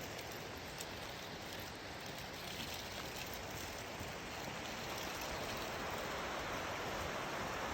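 Creek water rushing, a steady, even hiss with no break.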